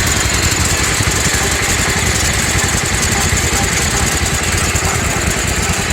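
Garden tractor's 14-horsepower Kohler engine running steadily, with no change in speed.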